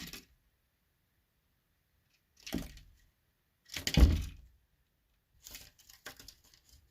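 Bird trapped in an attic scratching and flapping above the ceiling: two sudden bursts of scuffling and thumping, the louder about four seconds in, then a run of lighter scratches near the end.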